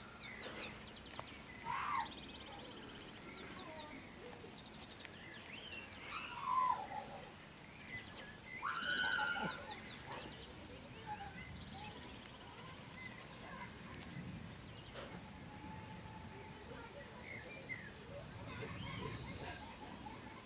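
Scattered short bird calls, with louder ones about 2, 6 and 9 seconds in, over a faint steady background.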